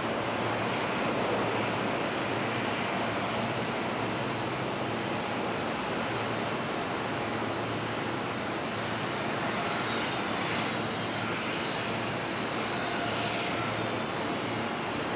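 Boeing 737-800's CFM56 jet engines running steadily, a broad rush with a high whine on top that slowly falls in pitch over the second half.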